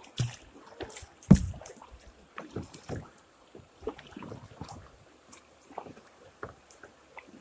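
Kayak paddling: the paddle splashes and dips in the river, with scattered knocks, the loudest a sharp thump about a second in.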